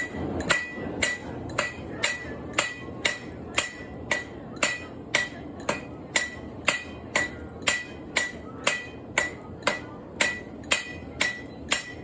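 Blacksmith's hammer striking on an anvil in a steady rhythm, about two blows a second, each with a bright metallic ring.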